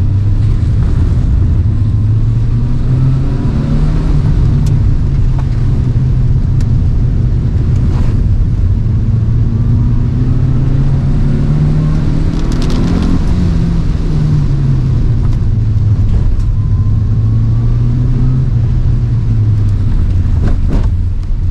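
Toyota AE111 Trueno's four-cylinder engine, heard from inside the cabin, revving up and dropping back several times as it accelerates and shifts gear on a wet track. Under it runs a steady hiss of tyre spray and road noise, with a few sharp knocks.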